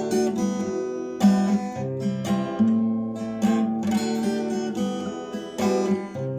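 Acoustic guitar strumming chords with no singing, each chord ringing on with a low bass note under it and a fresh strike about every second: the instrumental close of the song after the last sung line.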